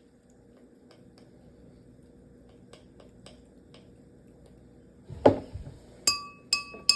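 Faint ticks, then a knock about five seconds in, followed by three sharp clinks of a spoon against a glass cup, each ringing briefly.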